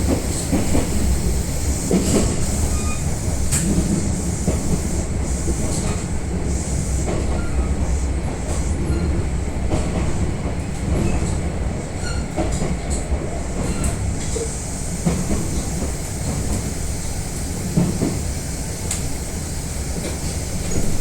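Kintetsu commuter train running on the line, heard inside the passenger car: a steady low rumble of wheels on rail, with scattered short clicks over rail joints.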